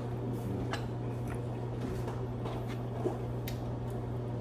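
A steady low hum with faint, scattered clicks and taps over it.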